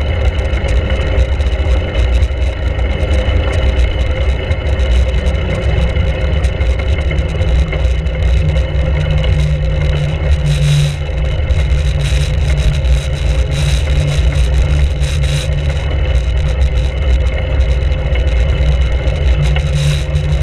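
Continuous heavy rumble of wind buffeting a bicycle-mounted GoPro's microphone while riding, with tyre and road noise and a few brief knocks from bumps.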